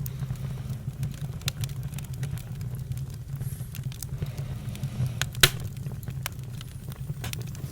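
Campfire crackling: scattered sharp pops and snaps over a steady low rumble, with one loud pop about five and a half seconds in.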